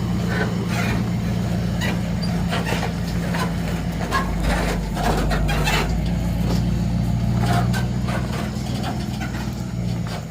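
Dually pickup truck engine running steadily with irregular clanks and knocks over it, typical of a truck pulling a loaded fifth-wheel car hauler. The engine note stops near the end.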